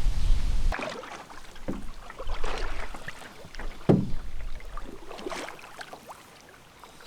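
Canoe being launched and paddled: a few hollow knocks on the hull and splashes of water, after a loud low rumble in the first second.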